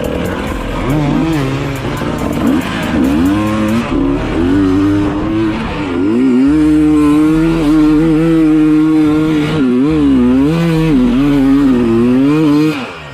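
Dirt bike engine revving up and down in repeated swells, held steadier and louder for a few seconds in the middle, then dropping away near the end.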